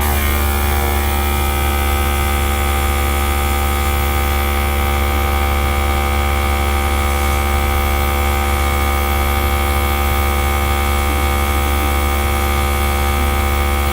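Small electric air gun running steadily, a motor whine with a hiss of blown air, over a constant low hum.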